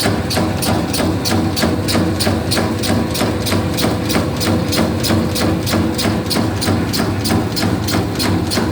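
Meatball-forming machine running: a steady motor hum under a fast, even clicking of its mechanism, about four clicks a second.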